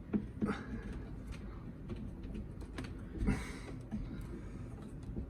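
Light clicks and taps with a short scraping rustle about three seconds in, from a cut-open wall panel being handled and pulled open by hand.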